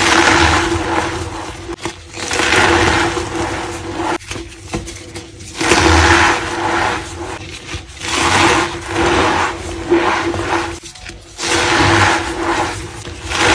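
White reformed gym chalk being crushed, giving squeaky, powdery crunches in repeated swells about every two seconds, over a steady low hum.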